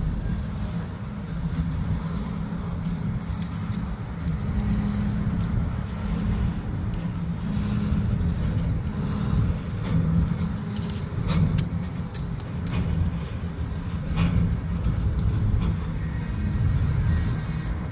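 CN freight train's cars rolling past: a steady low rumble with a hum, and scattered sharp metallic clicks and rattles from the wheels and cars, thickest about halfway through.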